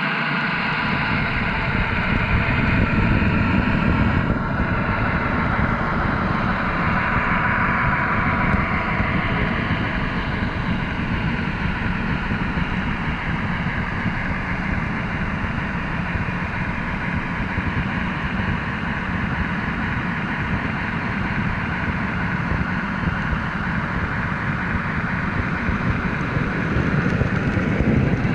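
Steady rumbling noise, even and unbroken.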